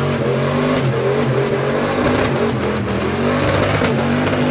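Car engine running at high revs under hard throttle, its pitch wavering, with a loud rushing hiss over it and a faint high whine that rises several times.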